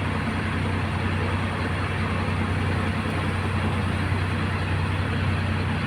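Truck's diesel engine running steadily, a constant low hum heard from inside the cab.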